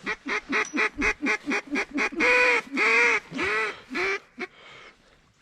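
Duck quacking: a quick run of about a dozen short quacks, then four longer, drawn-out quacks.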